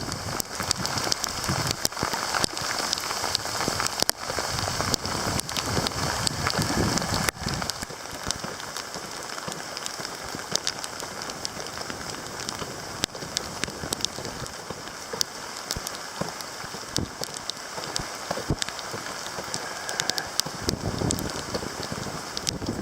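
Rain and water drops falling on surfaces: many sharp drop hits over a steady hiss.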